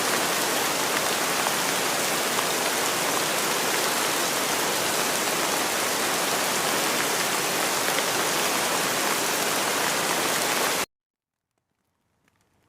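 Steady rain falling, an even hiss. It cuts off suddenly near the end, and after about a second of silence it fades back in faintly.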